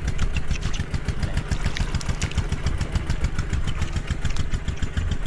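A small engine running steadily at idle, with a fast even pulse and some clatter.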